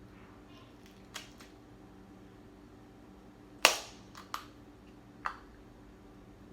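Crab leg shells cracking: four short, sharp snaps, the loudest about three and a half seconds in.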